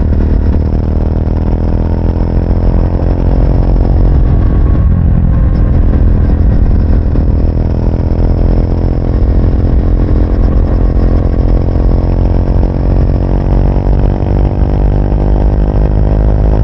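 Triumph Speed 400's single-cylinder engine and exhaust pulling steadily under way, its pitch climbing slowly, with a shift about four to five seconds in. Heavy wind rumble sits underneath.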